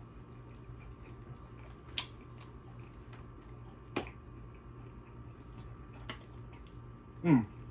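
Close-up mouth sounds of someone chewing steak: soft wet smacking with a few sharp clicks, about two seconds apart. Near the end there is a short vocal sound that falls in pitch.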